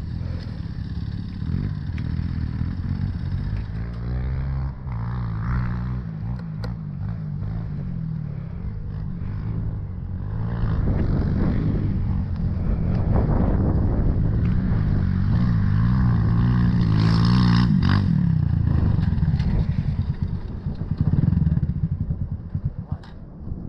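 Dirt bike engine running. It gets louder from about ten seconds in as it is ridden harder, then eases off near the end.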